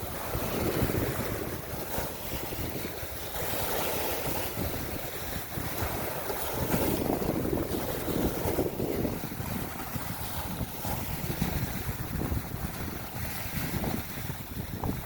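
Waves washing in, swelling and easing every few seconds, with wind rumbling on the microphone.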